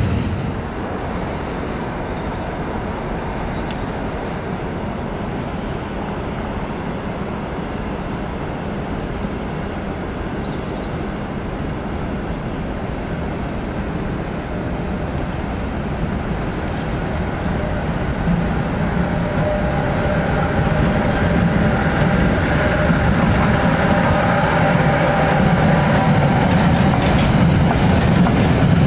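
Electric-hauled freight train approaching and passing: the rolling rumble of wheels on rail grows steadily louder over the second half. As the wagons go by near the end, a few steady tones sound above the rumble.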